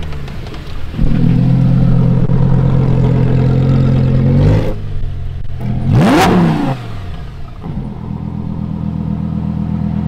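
Sports car engine held at raised revs for a few seconds, then dropping away. It gives one quick blip that rises and falls about six seconds in, then settles to a steady idle.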